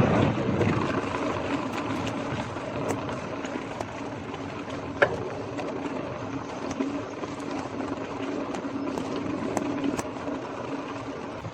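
Scott Scale Gravel 10 bike rolling along a wet street: steady tyre and road noise with scattered clicks and rattles and a sharper knock about five seconds in. A faint steady hum sits underneath.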